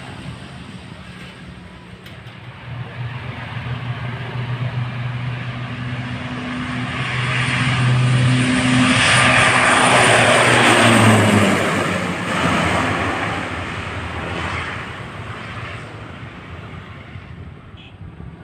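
Airplane passing close by: its engine drone builds to its loudest about ten seconds in, drops in pitch as it goes past, then fades away.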